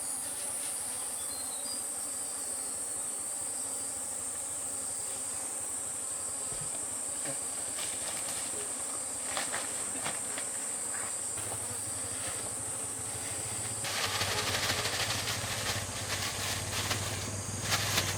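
Insects chirring in a steady high-pitched drone. About two-thirds of the way through, louder rustling and a low hum join in.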